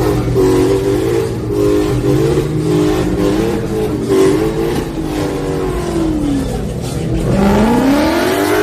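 Car engine revving: its pitch wavers, sinks about five seconds in, then climbs again near the end.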